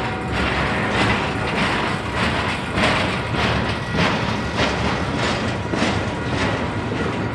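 Double-stack container train's well cars rolling past at close range: a steady rumble of steel wheels on rail with a clack roughly every half second as the wheels cross rail joints.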